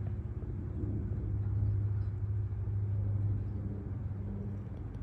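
A steady low mechanical hum with a rumble underneath, holding one pitch without change.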